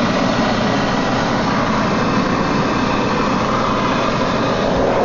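Brazing torch flame burning with a steady hiss while a pipe joint is heated for brazing.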